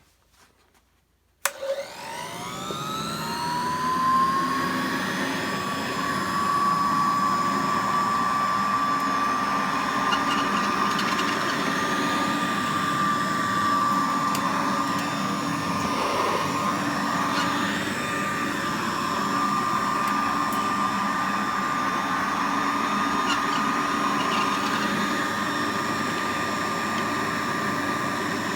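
A 1921 Hoover Model 102 vacuum cleaner is switched on with a click about a second and a half in. Its motor spins up with a rising whine, then runs at a steady pitch.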